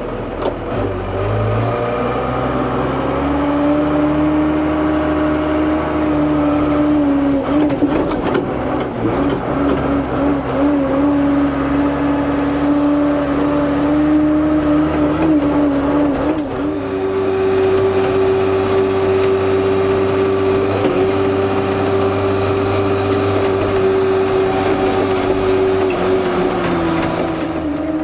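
Freshly started diesel engine running. It revs up over the first few seconds and holds a raised speed, steps up to a higher speed about halfway through, then eases back down near the end.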